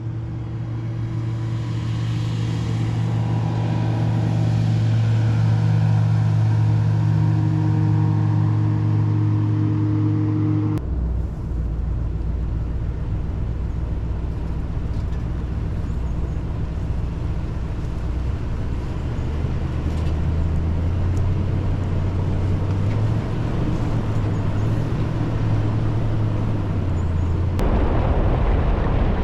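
A vehicle driving: engine running steadily with road noise. The sound changes abruptly about 11 seconds in and again near the end, as separate stretches of the drive.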